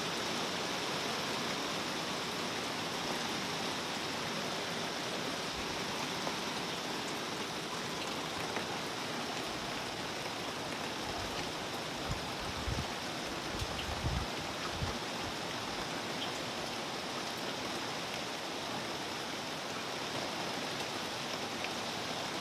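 Steady rain falling on a pond and the trees and grass around it, a constant even hiss. A few dull low thumps come about halfway through.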